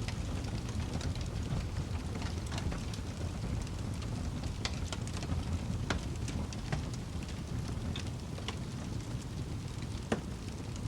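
Wood fire in a fireplace crackling: scattered sharp pops and snaps over a steady low rumble of the flames, with one louder pop near the end.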